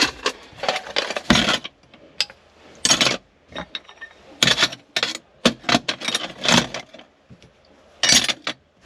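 Metal hand tools clanking and rattling as they are gathered up and put away: irregular clusters of sharp knocks and clinks, busiest about midway.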